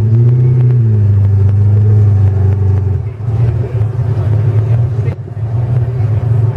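Bugatti Type 35's straight-eight engine running close by at low revs. Its pitch lifts slightly, drops back just under a second in, then holds steady before turning rougher about three seconds in.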